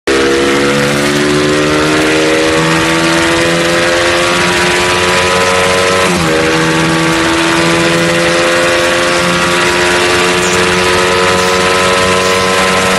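Honda Titan motorcycle engine running hard on a dynamometer, its pitch climbing slowly. About six seconds in the pitch drops briefly, like a gear change, then climbs again.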